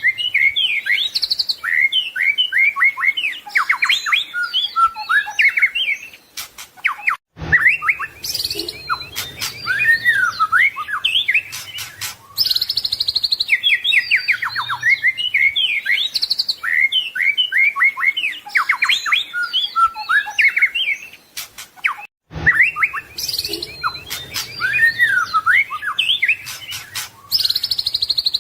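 White-rumped shama (murai batu) singing continuously: a rapid, varied run of whistles, trills and quick chattering notes. The song breaks off briefly about 7 seconds in and again about 22 seconds in, and the same stretch of song repeats after each break.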